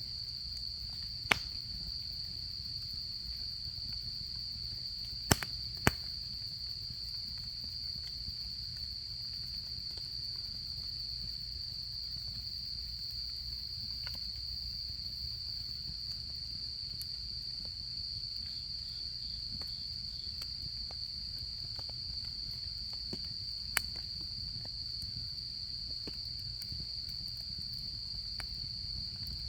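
Autumn insects trilling in one steady, unbroken high-pitched tone, over a crackling campfire that gives four sharp pops: one just after the start, two close together about five seconds in, and one about three quarters of the way through.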